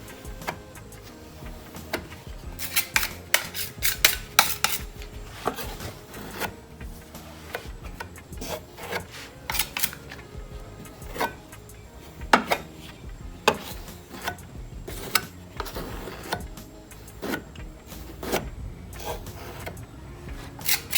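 Body filler being spread and scraped with a spreader over a plastic car bumper: short, irregular scraping strokes, about one a second, thickest a few seconds in.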